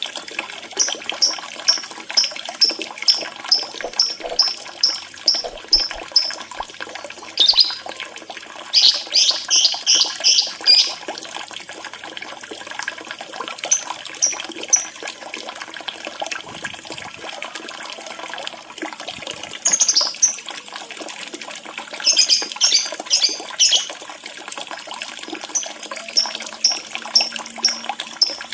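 Lovebird chirping in several runs of short, high-pitched repeated notes, about two or three a second, over running water trickling steadily.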